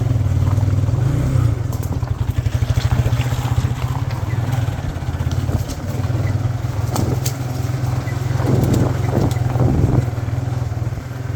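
Motorcycle engine running steadily at low revs on a rough off-road track, with a few sharp knocks and rattles from the bike about seven seconds in.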